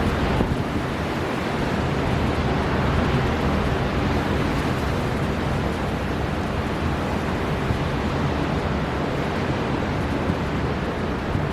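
Storm wind blowing hard over breaking ocean surf, a steady, dense rush of noise, heaviest in the low end, with no separate events standing out.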